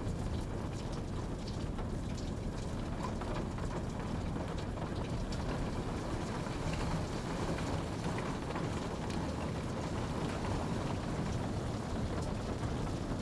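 Steady rain falling: a dense, even hiss with a low rumble underneath and scattered single drops ticking through it.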